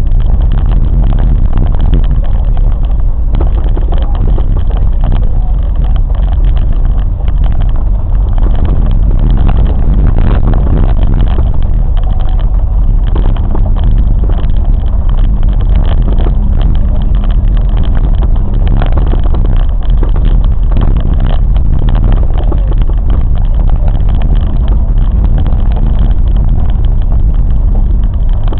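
Train running along the track: a loud, steady low rumble without a break.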